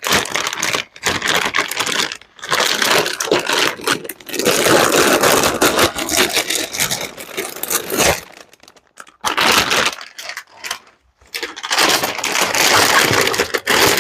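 Packaging being handled and opened, crinkling and scraping in irregular bursts a second or two long with short pauses between.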